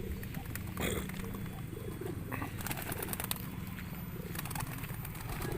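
Domestic pigeons cooing in low, wavering calls over a steady low hum, with scattered light clicks.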